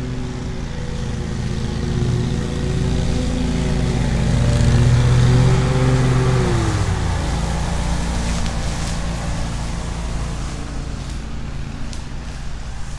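Petrol lawn mower engine running, growing louder as it is approached, its pitch dropping about six to seven seconds in as it is passed, then fading. Wind rumble on the microphone underneath.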